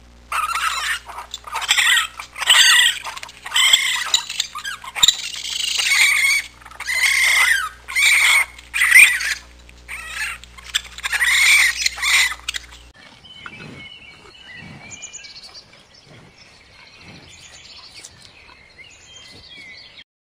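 A run of loud, repeated animal calls, each under a second and bending in pitch, for about thirteen seconds. The calls then stop abruptly, leaving only faint scattered chirps.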